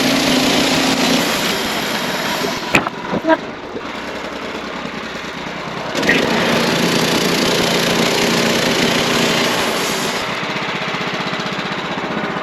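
Wood-Mizer portable band sawmill running steadily, louder for the first two and a half seconds and again from about six to ten seconds in, with a few sharp knocks around three seconds in.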